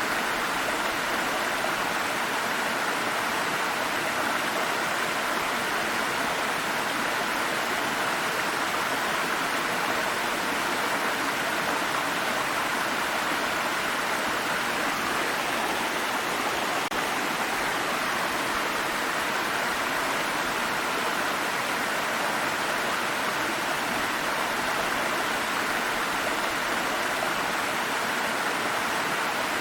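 Water stream flowing, a steady, unbroken rushing babble of water.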